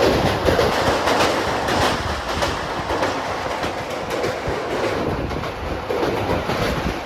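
A moving passenger train: its wheels clatter over the rail joints in an uneven run of clicks over the steady rumble and rush of the running train.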